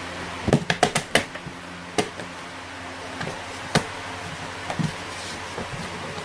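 A quick cluster of sharp knocks about half a second in, then single knocks near two and near four seconds, over a steady low hum.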